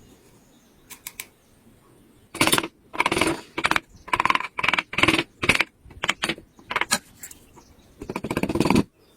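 A carving tool working wood in a run of short, harsh scraping strokes, about eight in all, starting a couple of seconds in, with a longer stroke near the end.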